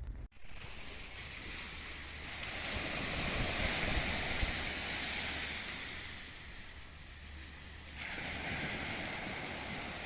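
Sea surf washing onto the shore, swelling to a peak and fading, then rising again near the end, with wind rumbling on the microphone.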